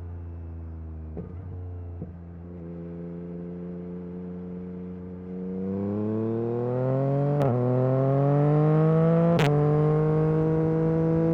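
Yamaha MT-09 SP's 890 cc three-cylinder engine through an Akrapovic carbon racing exhaust, running at a steady pace with two short breaks early on, then accelerating. The pitch rises and drops sharply twice, about halfway and near the end, as it shifts up, and grows louder.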